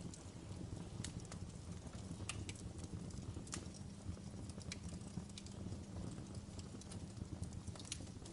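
Wood logs burning in a fireplace: irregular sharp crackles and pops over a low, steady rumble of the fire.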